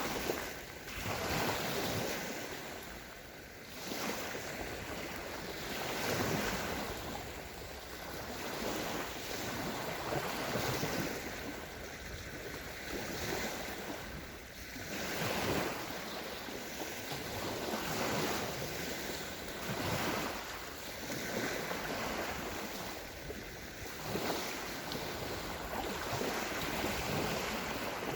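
Small sea waves breaking and washing up a sandy shore, a fresh wash swelling and fading every couple of seconds.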